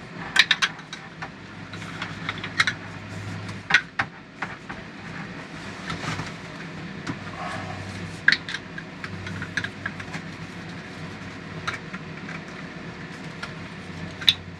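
A steady low mechanical hum with sharp clicks and knocks scattered through it, a few of them louder.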